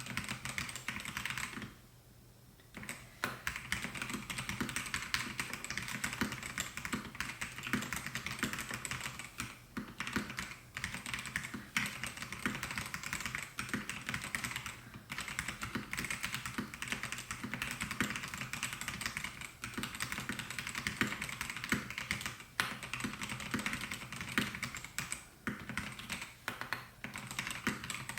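Melgeek Mojo68 mechanical keyboard with white Pro switches being typed on in quick, continuous runs of keystrokes, with a brief pause about two seconds in.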